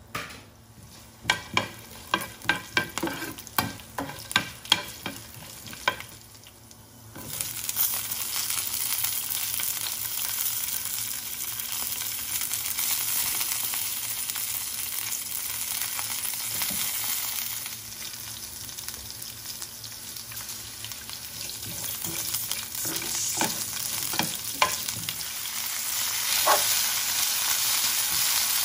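Whole spices frying in hot oil in a pan: a run of sharp pops and crackles for the first several seconds. From about seven seconds in this gives way to a steady sizzle as green chillies and then coriander leaves fry and are stirred, with a few more pops near the end.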